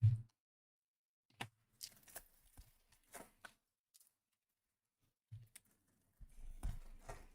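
Trading-card packs and cards being handled on a table: a thump at the start, scattered clicks and short rustles, another thump about five seconds in, then a second or so of crinkling near the end.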